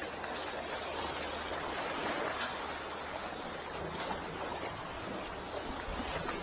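Sea water washing and trickling, a steady rush that swells about halfway through, with a few faint ticks.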